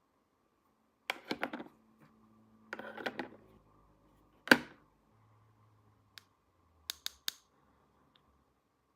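Small plastic toy pieces clicking and rattling as they are handled, in two short bursts, then one loud sharp snap about four and a half seconds in and three quick clicks near the end.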